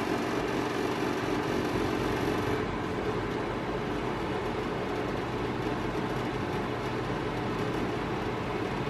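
Montlake 300 fireplace's blower fan running with a steady metallic vibration hum on top of the plain fan noise. The vibration comes from one side of the unit and is a fault that attempts to align the parts have not cured.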